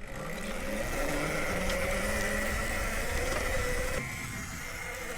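Nexvey Flash electric dirt bike running under power on a rocky trail: a thin electric motor whine over wind and tyre noise. The pitch rises slightly early on, and the sound eases off a little about four seconds in.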